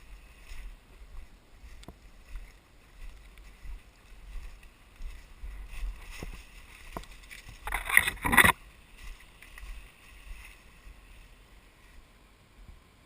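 Footsteps and rustling through forest undergrowth, with scattered small snaps and a louder crackling brush of leaves and twigs about eight seconds in, over a low rumble on the microphone.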